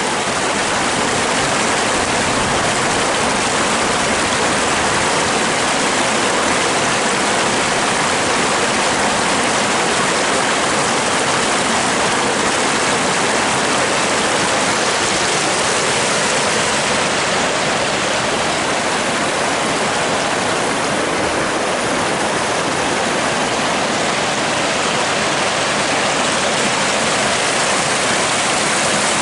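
Waterfall on a river, its water rushing steadily without a break.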